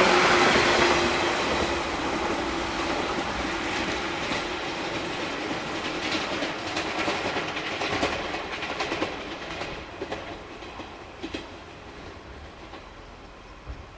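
Shonan-coloured electric multiple unit train running away along the tracks, its running noise fading steadily. A faint falling whine dies out in the first seconds, and a run of wheel clacks over the rail joints comes from the middle on, growing fainter.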